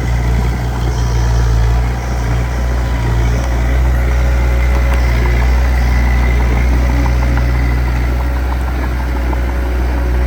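Diesel engine of heavy earthmoving equipment running steadily with a deep hum, with faint light ticks over it.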